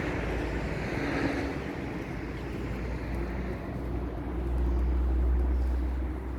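Wind buffeting the microphone: a deep rumble that swells about four and a half seconds in, over a steady rushing hiss.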